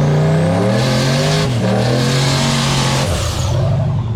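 Drag-race car engine held at high revs, its pitch stepping up and down, with a rush of noise through the middle. The engine note drops away about three seconds in.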